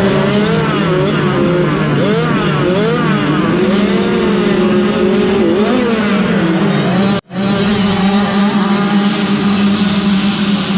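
Several 65cc two-stroke motocross bike engines revving, their pitches rising and falling over one another. The sound cuts out completely for a split second about seven seconds in, then returns as a steadier held engine note.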